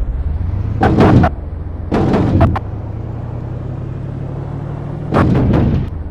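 A supercar engine running at a low, steady idle, broken by three loud, sharp bangs from the exhaust, about a second, two seconds and five seconds in.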